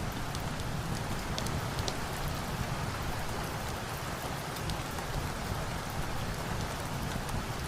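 Steady rain with a low rumble under it, dotted with sharp, irregular high crackles like a log fire popping.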